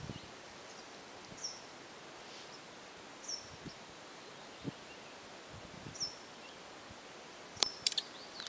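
Quiet outdoor background with a small bird giving short, high, falling chirps every couple of seconds. Near the end come a few sharp clicks and rustles.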